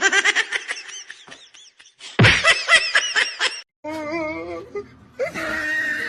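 Two bursts of rapid laughter, followed by a wavering, drawn-out call that rises and falls in pitch.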